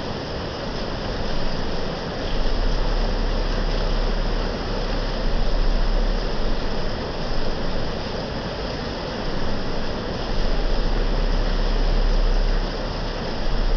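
Heavy rain falling, a steady even hiss with a low rumble that swells and fades every few seconds.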